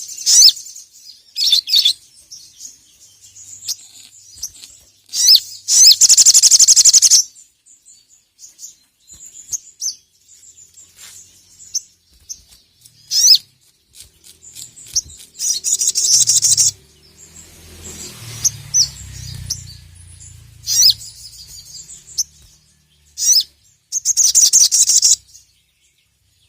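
Sogok ontong (sogon) sunbird calling loudly and excitedly. It gives high, sharp chirps between three long, fast, buzzing trills, one about six seconds in, one around the middle and one near the end.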